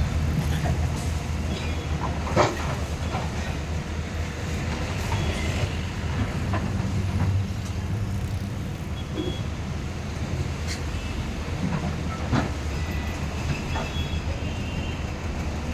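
Heavy diesel demolition machinery running with a steady low rumble, with scattered sharp knocks and clanks; the loudest come about two and a half seconds in and again near twelve seconds.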